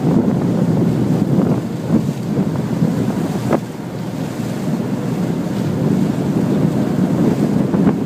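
Wind buffeting the microphone over the rush of water from a moving boat, a loud, steady rushing noise, with one short sharp sound about three and a half seconds in.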